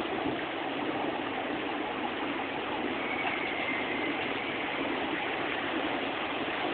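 Heavy hail falling: a dense, steady clatter of countless hailstones striking.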